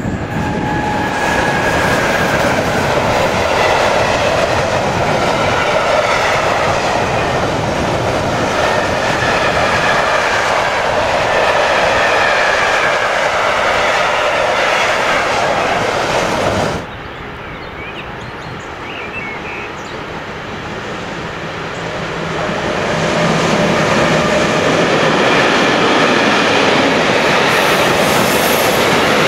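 Freight train wagons rolling past on the rails: a steady rumble with clickety-clack of the wheels and a wavering high squeal. About two-thirds of the way in the sound drops off suddenly, and the rumble of another freight train builds up again near the end.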